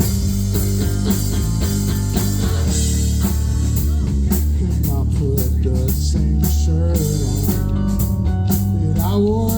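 Live rock band playing an instrumental passage: guitar over a drum kit keeping a steady beat.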